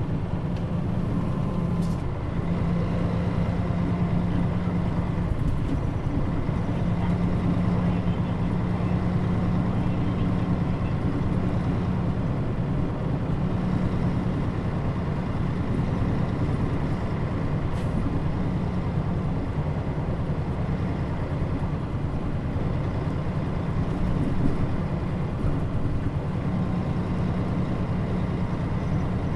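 Fuso Aerostar city bus (KL-MP35JM) heard from inside, its diesel engine running with a steady drone whose pitch steps a few times as it drives. A couple of faint clicks and one short louder knock stand out near the end.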